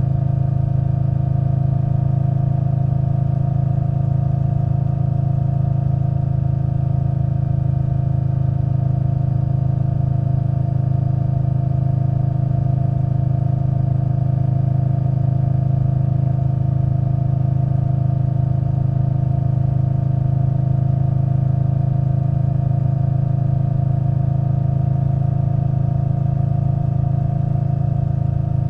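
Indian Scout Bobber Twenty's liquid-cooled V-twin running through V&H Twin Slash exhaust pipes, holding one steady engine note with no change in pitch.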